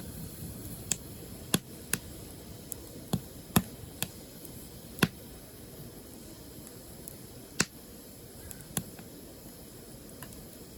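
Firewood burning, giving sharp crackles and pops over a low, steady rush. About ten snaps come, most of them in the first half.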